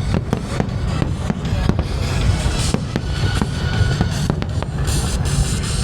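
Aerial fireworks going off in a rapid, overlapping barrage: many sharp bangs and cracks a second over a continuous deep rumble.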